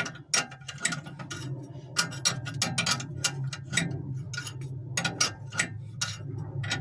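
Irregular sharp metallic clicks and taps, a few a second, from hand tools working the adjusting screws and nuts of a narrowboat's engine mounts during engine alignment, over a steady low hum.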